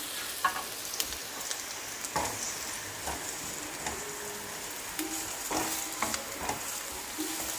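Sliced onions sizzling in hot oil in a pan, frying until they wilt. They are being stirred, with scattered clicks and scrapes of the utensil against the pan.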